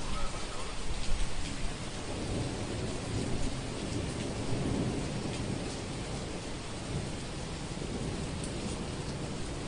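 Steady rain falling, with a low rumble of thunder that swells a couple of seconds in and fades away again. Scattered individual drops tap through it.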